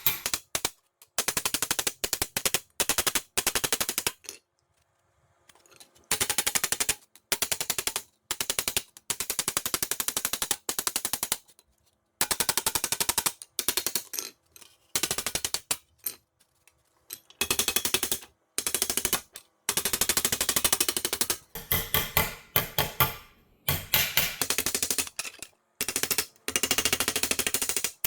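A tool rattling out rapid impacts in short on-off bursts of about half a second to two seconds, started and stopped over and over, likely working on the plate's metal.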